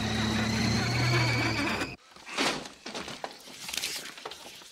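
A car engine running with a steady low hum and a high whine, cut off abruptly about two seconds in. After that there are only faint, scattered knocks and rustles.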